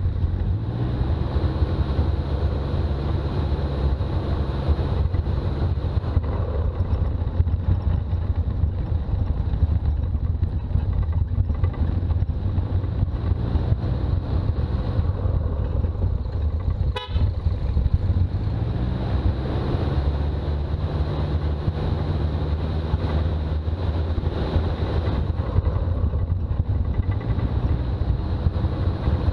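Toyota BJ40 Land Cruiser's engine running under way with road noise, its note climbing in pitch as it accelerates near the start and again about two-thirds of the way through, after a brief break.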